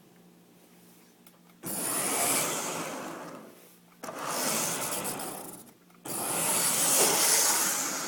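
Lionel HHP-8 Amtrak model locomotive giving off a harsh rasping noise three times, each burst starting suddenly and fading over about two seconds, after a faint steady hum: the abnormal noise of a faulty ('busted') locomotive.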